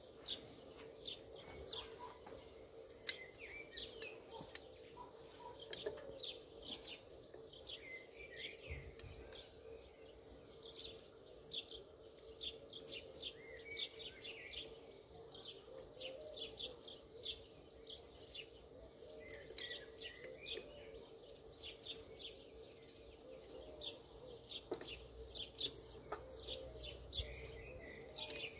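Birds chirping and singing, a steady stream of short high chirps and warbles, over a faint steady hum, with a few light clicks.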